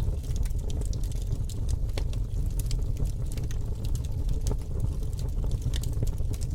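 Campfire crackling: many small, irregular sharp pops over a steady low rumble.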